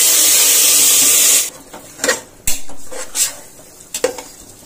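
Marinated chicken sizzling loudly in hot oil in an aluminium pressure cooker; the hiss stops suddenly about a second and a half in. It is followed by several sharp metal clanks of the bowl and utensils against the pot.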